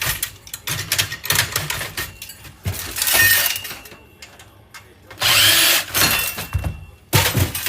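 Power drill/driver run in several short bursts, each under a second, while taking apart an electronics unit for scrap, with clicks and clatter of metal and board parts between the bursts.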